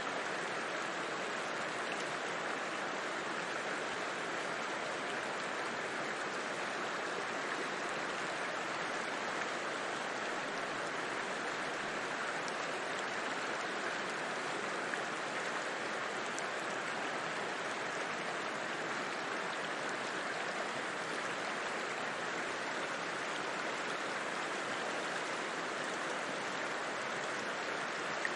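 River water flowing: a steady, even rush of running water that holds unchanged throughout.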